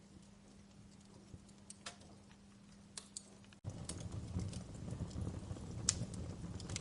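Wood fire crackling, with sparse sharp pops and snaps over a faint hiss. A little over halfway through it jumps abruptly to a louder stretch with a low rumble and denser crackling.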